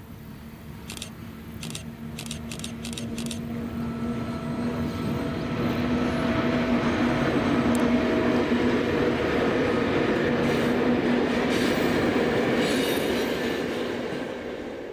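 A train approaching and passing close by, growing louder over the first six seconds into a steady rumble of wheels on rail with a constant low hum.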